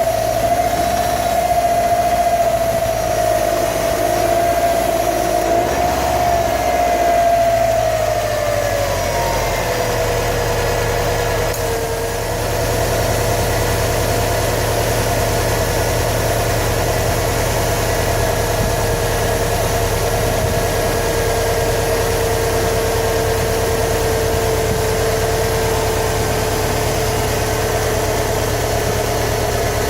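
Subaru WRX STI's turbocharged flat-four engine idling steadily. Its pitch drops about a third of the way in and then holds level.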